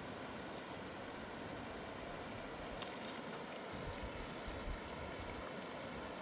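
Steady rushing of a mountain river, with a few low rumbles about four seconds in.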